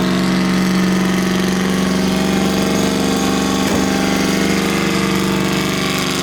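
A car engine revved up and held at a steady high speed.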